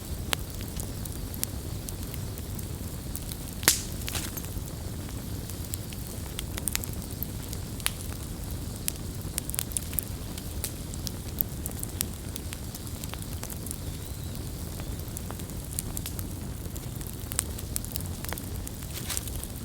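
Campfire burning with a steady low rumble and frequent sharp, irregular wood crackles and pops, one louder pop a little under four seconds in.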